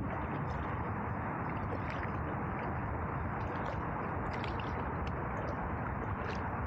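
Canoe paddling: light splashes and drips from the paddle now and then over a steady rushing of water and wind.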